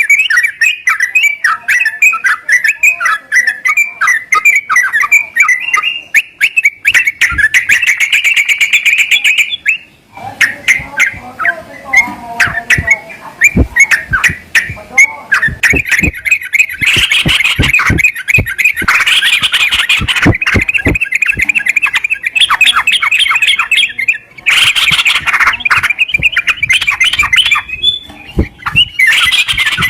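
Sooty-headed bulbul (trucukan) calling: a dense run of fast, repeated chirping notes, broken from about a third of the way in by harsh squawking bursts and sharp clicks.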